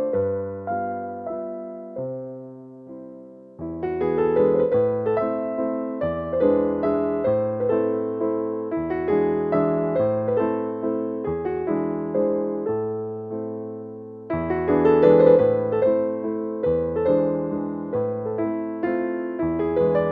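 Soft solo piano music: gentle chords and melody notes, each decaying, with the playing thinning out briefly before fuller chords come back in a little after three seconds and again about fourteen seconds in.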